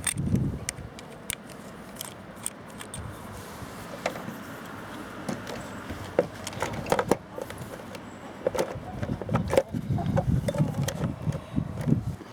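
Clicks, taps and light knocks of a small motorcycle battery being handled and fitted into its compartment, with a busier stretch of low knocks and clunks in the second half.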